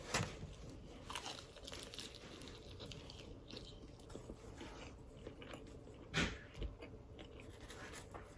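A person chewing crispy fried food close to the microphone: faint crunching and mouth sounds, with a louder crunching bite about six seconds in.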